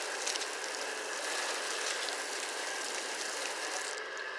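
Water spraying in a steady hissing stream onto a car's waxed paint to show the beading, cutting off near the end. A steady engine-like hum runs underneath.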